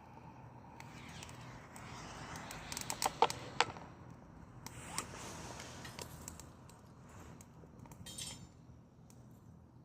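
Dry perilla branches crackling and popping as they burn in a Solo Stove wood-burning stove, over a soft rush of flame. A cluster of sharp pops about three seconds in is the loudest.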